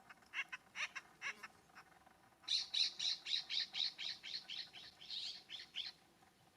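California scrub-jay calling: a few scattered harsh notes, then a rapid run of about fourteen rasping notes, about four a second, that stops short near the end.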